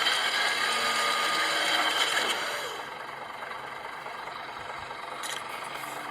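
Garbage truck running, its engine and machinery rattling, louder for about the first two and a half seconds and then quieter and steady.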